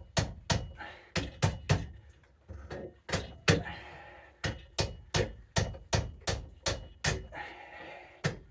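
Repeated hammer blows on a stuck ice auger part, about two to three strikes a second with a brief pause about two seconds in, driving the part to work it loose.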